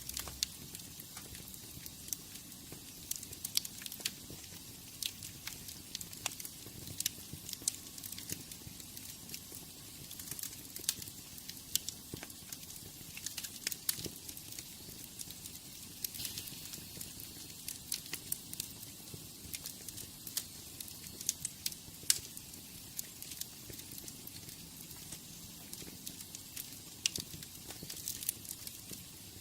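Wood fire burning in a fireplace, crackling steadily with many sharp pops and snaps over a soft hiss.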